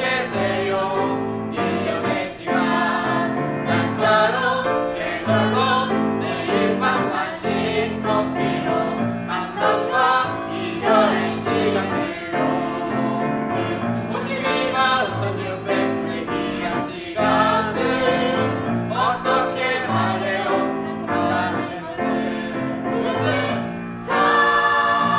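A choir singing a song with instrumental accompaniment. A long held note begins near the end.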